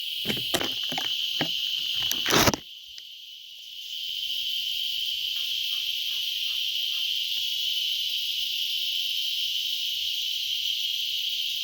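A steady, high-pitched insect chorus. Several knocks come in the first couple of seconds, then a loud burst of noise about two and a half seconds in. The chorus drops out for about a second and then returns.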